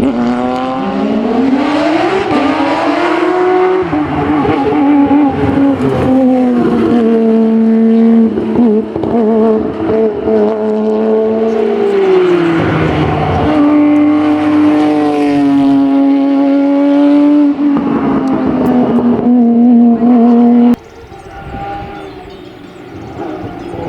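Hillclimb racing car's engine at full throttle, its pitch climbing and dropping several times as it changes gear and lifts for corners. About 21 s in the sound cuts abruptly to a quieter engine.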